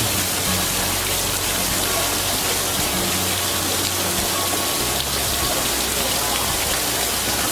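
Steady, even hiss like falling rain, with no clear events in it.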